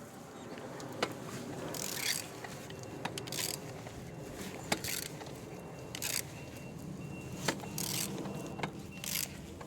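A removed Hyundai D4EA diesel engine's crankshaft being turned over by hand with a wrench: irregular mechanical clicks and short scraping, hissing strokes every second or so as it rotates. It turns freely with no binding, a sign the engine is not seized.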